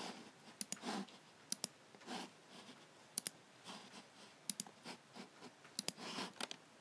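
Logicool G7 computer mouse clicking: sharp clicks about once a second, mostly in quick pairs as the button is pressed and released, with softer, longer rubbing sounds between them.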